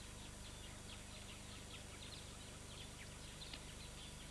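Faint, quick high-pitched chirps of birds, many short calls scattered throughout, over a steady low hum.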